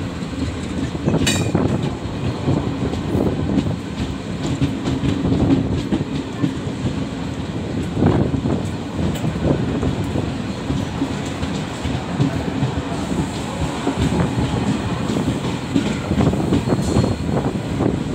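Passenger train running at speed, heard from inside a coach: a steady rumble of wheels on rail with irregular clattering and knocks over the track, and one sharp click a little over a second in.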